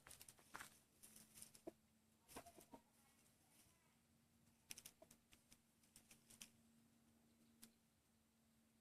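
Near silence: faint, irregular light taps and clicks over a faint steady low hum.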